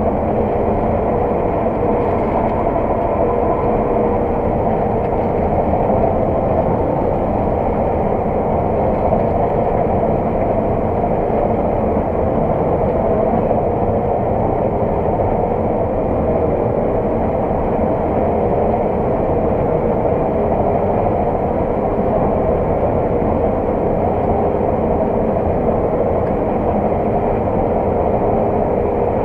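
Heavy farm vehicle's diesel engine running steadily, a constant muffled drone heard from inside the cab.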